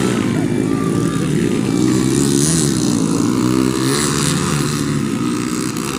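Motorcycle engines running, their pitch rising and falling as the throttles are worked.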